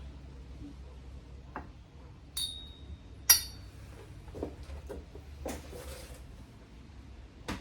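Small metal carburettor parts clinking and tapping as they are handled, with two sharp ringing clinks a few seconds in and a few lighter knocks.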